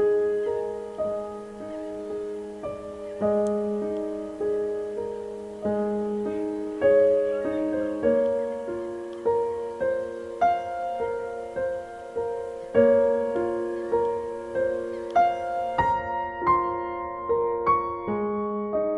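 Slow, gentle solo piano music: notes and chords struck one after another, each left to ring and fade.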